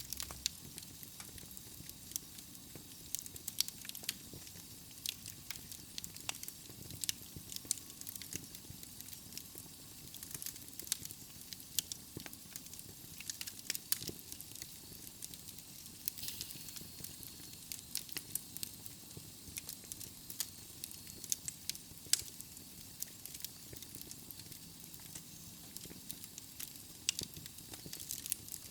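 Logs burning in a wood fireplace: a steady soft hiss with frequent, irregular sharp crackles and pops.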